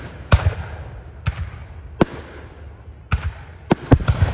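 Fireworks going off in a string of loud, sharp bangs, about eight in four seconds at uneven spacing, each with a rolling echo.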